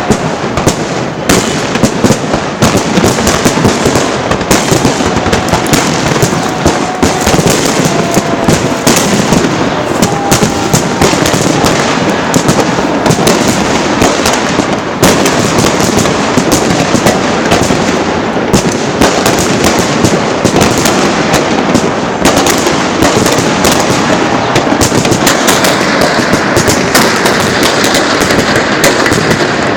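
Fireworks salute launchers firing in rapid succession: a loud, dense, unbroken crackle of launches and shell bursts.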